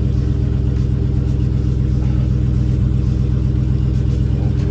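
Dodge Scat Pack's 6.4-litre HEMI V8 idling steadily on its factory mufflers, heard from inside the cabin.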